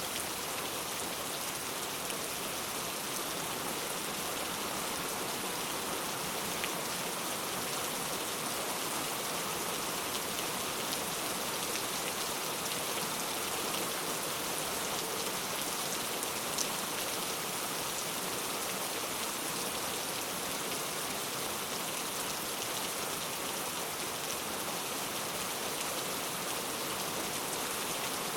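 Steady rainfall, an even hiss of rain with a few individual drops ticking out now and then.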